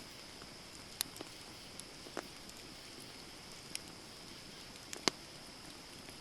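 Wood campfire crackling: about half a dozen sharp, irregular pops and snaps, the loudest about five seconds in, over a steady high hiss.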